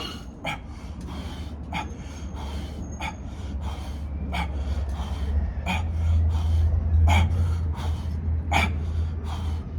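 A man breathing hard in short, sharp gasps, about one every half second to a second, over a steady low rumble that swells midway.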